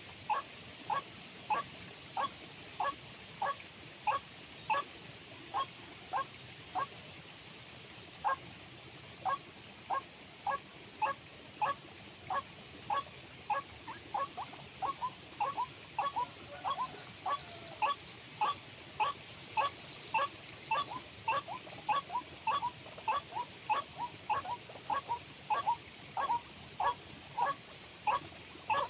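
A bird calling a long, even series of short clucking notes, about two a second at first and quickening to about three a second in the second half. Brief high chirps come in near the middle.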